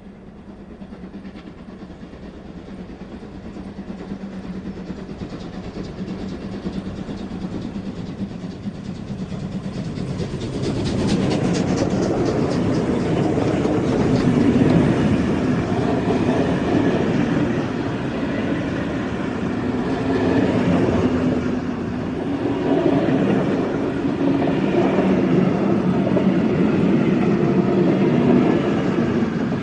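Steam train approaching and running past. The noise builds over the first ten seconds or so, then stays loud with slow swells.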